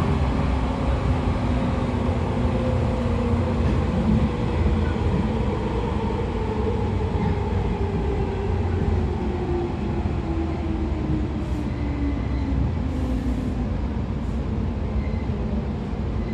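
JR 113 series electric train running, its MT54 DC traction motors and gears whining over the steady rumble of the wheels and bogies. The whine falls steadily in pitch as the train slows, with a few brief hisses in the second half.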